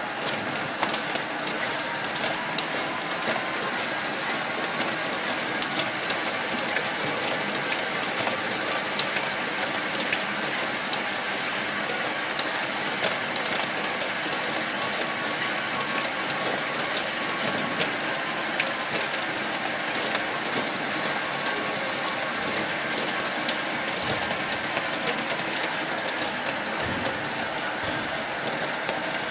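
Machinery running steadily, with a constant noise and many small clicks and ticks throughout.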